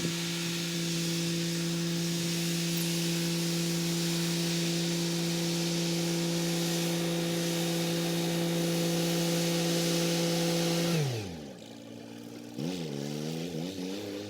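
Kubota SL35 diesel tractor engine running steadily under load with the rotary tiller, a strong hissing rattle over the engine note. About eleven seconds in the revs drop sharply and the hissing stops, then the engine picks up briefly and settles at a lower speed.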